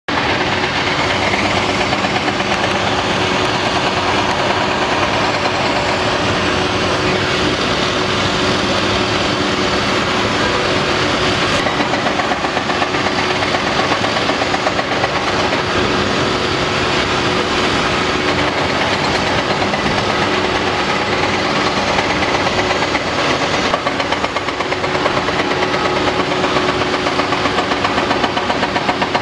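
Hydraulic hammer on a Cat 330DL excavator pounding rapidly and without a break on a foundation, over a steady hum from the machine.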